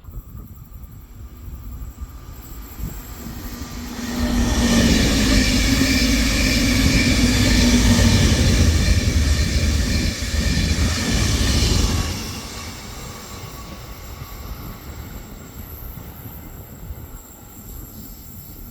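A train going by: its sound builds for about four seconds, is loud for about eight seconds as it passes, then drops off suddenly and fades away.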